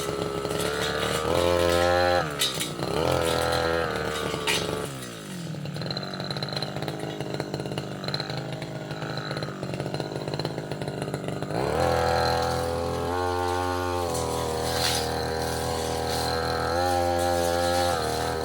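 Small two-stroke brush cutter engine revved to high throttle, dropping back to a steady idle for several seconds, then revved high again twice in short bursts.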